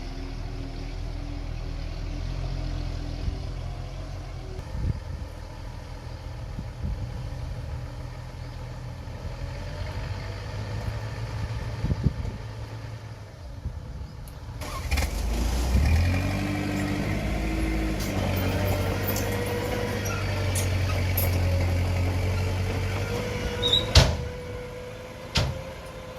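Komatsu mini bulldozer's diesel engine running under load, with its pitch rising about halfway through, amid scattered metal clanks. A sharp, loud clank comes near the end.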